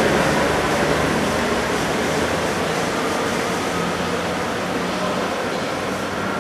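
Electric urban train running at a station, a steady rushing noise with faint motor tones that slowly gets quieter as it pulls away.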